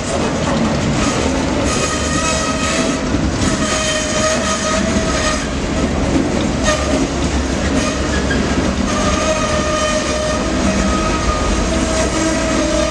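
Amtrak Auto Train autorack cars rolling past with a rumble of wheels on the rails, under a high squeal from the wheels and brakes that comes and goes every few seconds as the train brakes to a stop.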